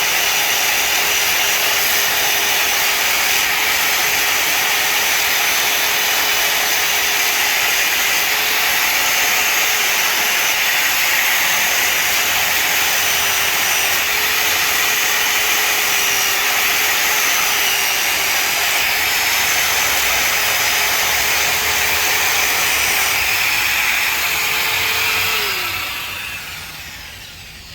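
Wagner PaintEater electric palm grinder running steadily with its motor whine while its disc grinds down a chewed dog chew bone. Near the end it is switched off and the motor winds down, falling in pitch.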